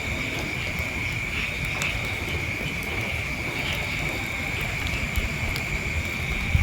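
Insects trilling in a steady chorus, one unbroken high note, over a low rumble on the microphone.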